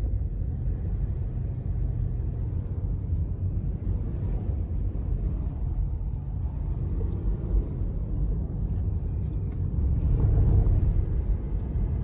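Steady low rumble of a car being driven, swelling louder about ten seconds in.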